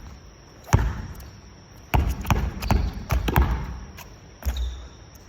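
A basketball bouncing on a gym floor: several separate thuds at uneven intervals.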